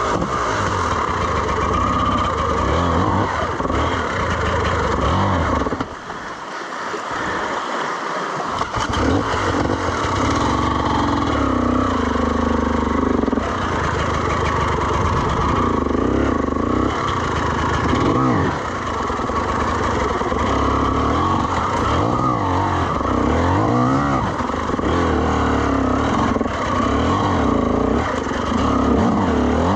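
Dirt bike engine running loudly, revved up and down again and again with short throttle bursts, easing off briefly a few seconds in.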